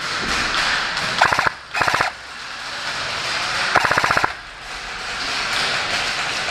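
Airsoft M249 Mk46 support gun firing three short full-auto bursts, each a rapid rattle of shots lasting a fraction of a second.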